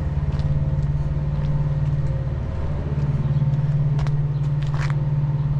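An engine idling steadily: a low, even hum with a few faint clicks over it.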